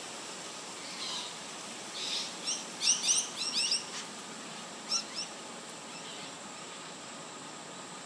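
A bird chirping: a quick run of short, sweeping calls about two and a half seconds in, then two more about five seconds in, over a steady background hiss.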